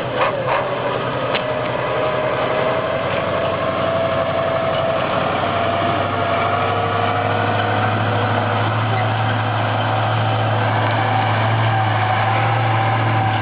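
Ural 6x6 truck's engine running steadily, with a high whine that climbs slowly in pitch and a deep drone that grows louder about five seconds in. A few knocks at the very start.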